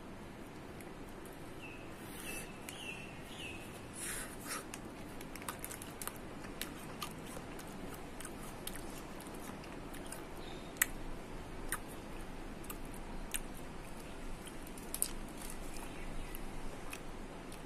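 Biting into a frozen potong ice pop and chewing it, with scattered sharp clicks.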